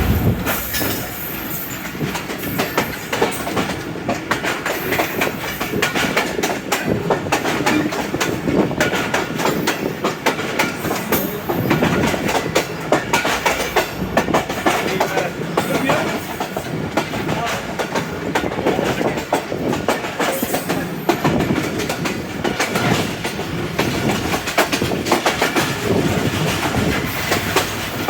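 Railway carriages rolling by, their steel wheels clattering rapidly and continuously over the rail joints.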